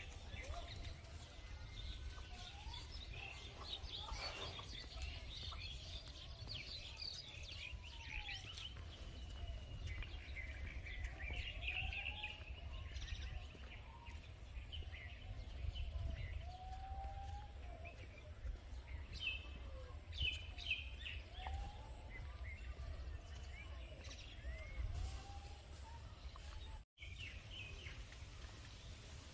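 Birds chirping and calling, with short high chirps and lower arcing calls, over a steady low rumble and a faint steady high hiss. The sound drops out for a split second near the end.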